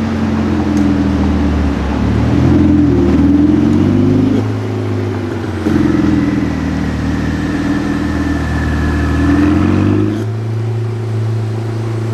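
A supercar's engine and exhaust accelerating. The pitch climbs, drops at a gear change about four seconds in, and climbs again. About ten seconds in it falls to a steady lower note.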